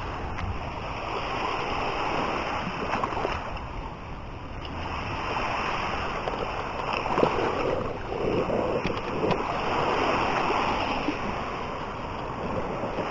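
Sea waves washing onto the beach, the surf swelling and fading every few seconds.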